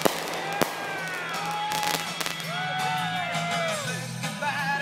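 Consumer fireworks going off: two sharp bangs in the first second, then several overlapping whistling tones that rise and fall, over a steady low hum.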